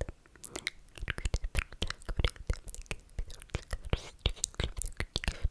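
ASMR mouth sounds: wet slurping and lip-smacking, a quick irregular run of wet clicks and smacks with breathy sucking between them.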